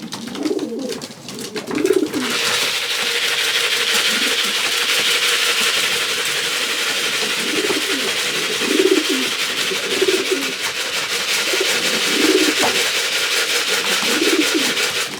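Racing pigeons cooing repeatedly in their loft, a low call every second or two. From about two seconds in, a steady hiss of unclear source runs underneath and is louder than the birds.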